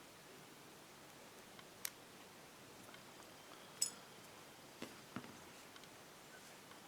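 A few short, sharp clicks and taps, the loudest about four seconds in, from small carburetor parts and tools being handled during disassembly.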